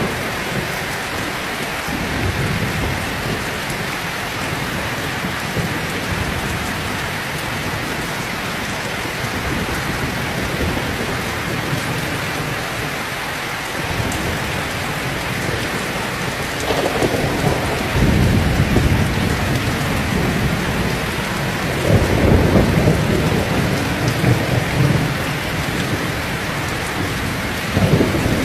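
Heavy rain pouring steadily, with several long rolls of thunder rumbling underneath, louder in the second half.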